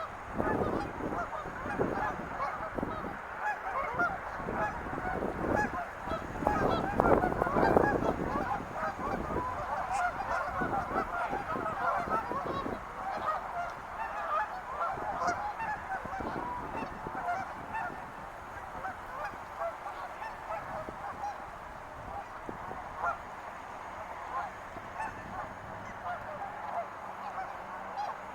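A large flock of birds calling: many short calls overlapping into a continuous din, loudest in the first eight seconds or so, then somewhat quieter.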